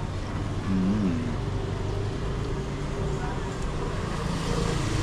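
Busy eatery ambience: a steady low hum of street traffic under background voices, with a brief vocal sound about a second in.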